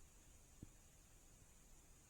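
Near silence: a faint steady hiss, with one brief soft low thump about half a second in.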